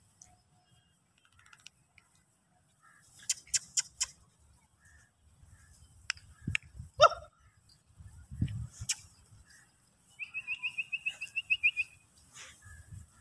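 Scattered clicks and rustles, then a single short cry that falls in pitch about halfway through. Near the end, a small bird gives a rapid high trill lasting about two seconds.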